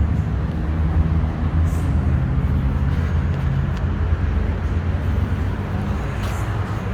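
Steady low rumble of motor traffic and running vehicle engines, with a few faint ticks.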